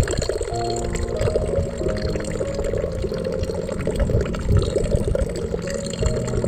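Steadily flowing water, with soft background music of long held notes.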